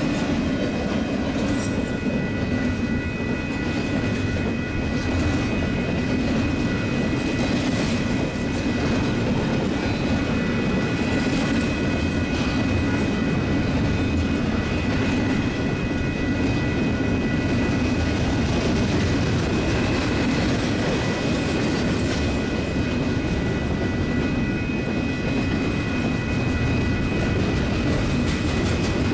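Union Pacific double-stack intermodal freight train rolling steadily past, container well cars rumbling and wheels clattering on the rails, with thin high tones held steady over the rumble.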